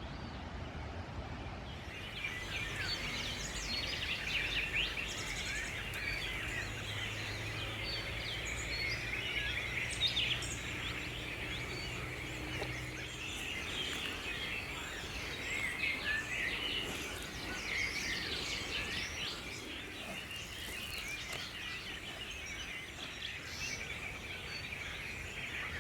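Birds chirping: many short, high calls overlapping in a busy chorus, over a steady background hiss.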